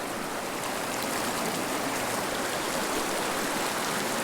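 Steady rush of a mountain river flowing over rocks, an even hiss with no distinct events.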